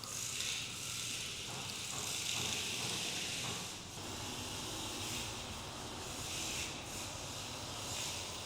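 Mini 1/64-scale LDARC R02 rear-wheel-drive RC drift car being driven on a hard floor: a steady high hiss from its small electric motor and rubber tyres, swelling and dipping a few times.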